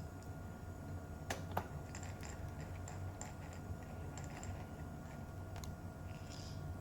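Small screws being set and driven into a laptop's plastic bottom case with a screwdriver: two sharp clicks about a second in, then a run of light ticks, over a steady low hum.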